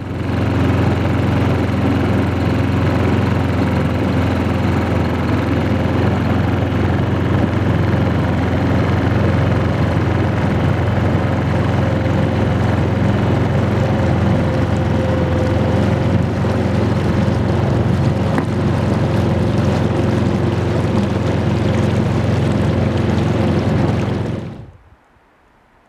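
Boat engine running steadily at constant speed, cutting in abruptly and stopping about a second before the end.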